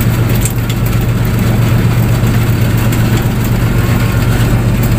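A fishing boat's engine running steadily with a constant low hum.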